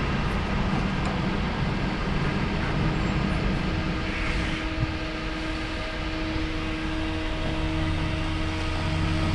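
MAN TGX truck's diesel engine running steadily, heard from inside the cab.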